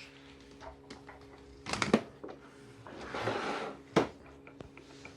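Hard plastic parts of a vacuum cleaner being handled: a quick clatter of knocks about two seconds in, a brief scraping rustle, then a single sharp click, over a faint steady hum.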